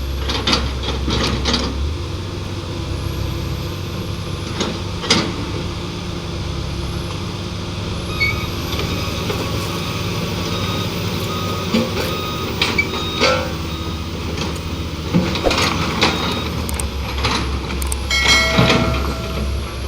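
Heavy diesel engines of trucks and earthmoving machinery running steadily, with scattered metallic knocks and clanks. Near the end comes a short run of quick beeps.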